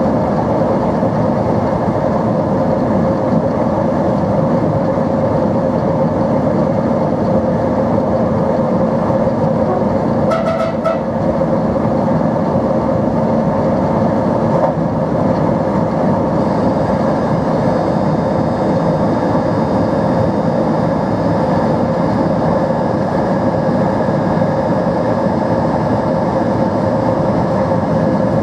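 NMBS/SNCB AM80 'Break' multiple unit's motors running steadily under way, a loud even drone with a constant hum in it. There is a brief short sound about ten seconds in, and a faint high whine joins past the halfway point.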